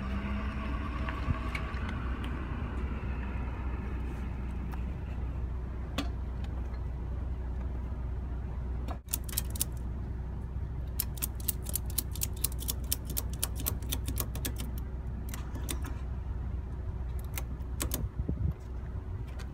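A ratchet strap being cranked tight: runs of quick sharp clicks from the ratchet buckle, starting about halfway through and coming fastest for a few seconds, with a few more near the end. A steady low rumble underneath.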